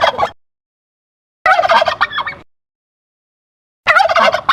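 Turkey gobbling: three separate gobbles, each a rapid warbling rattle about a second long. One trails off at the very start, a full one comes about a second and a half in, and another begins near the end.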